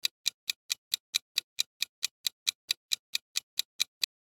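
Clock-style ticking sound effect, a quick, even run of about four and a half ticks a second, acting as the timer for answering. It stops abruptly about four seconds in.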